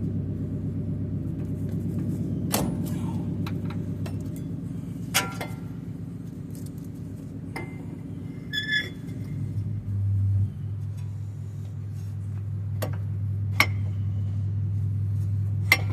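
A steady low machine hum runs throughout and shifts slightly about ten seconds in. Over it come several scattered metallic clinks and knocks of hand tools and parts being handled during front hub and brake assembly.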